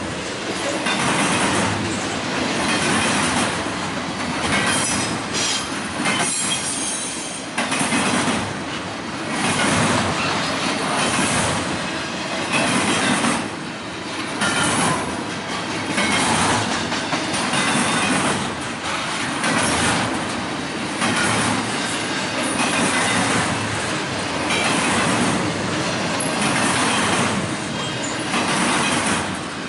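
Train cars rolling past, with steady wheel-on-rail noise that swells in a regular clatter about every two seconds as the wheel sets pass. There is a brief high wheel squeal about six seconds in.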